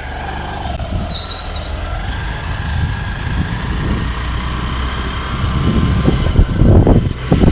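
Street traffic: motor vehicle engines running close by in a steady low rumble, with a brief high squeak about a second in and louder bursts of rumble near the end.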